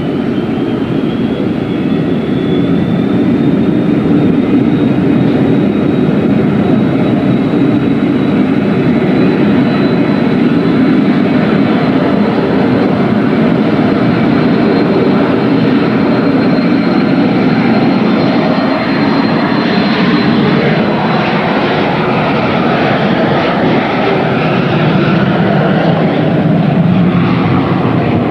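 Boeing 737-200's Pratt & Whitney JT8D turbofans at takeoff thrust: a loud, steady roar with a high whine that rises over the first few seconds, holds, then fades after about twenty seconds.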